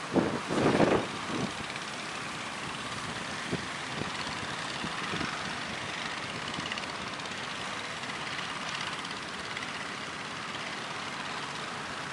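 Steady roar of strong wind and surf, with heavy gusts buffeting the microphone in the first second and a half.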